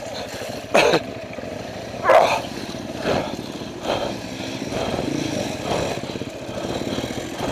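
Off-road motorcycle engine running, swelling briefly louder several times.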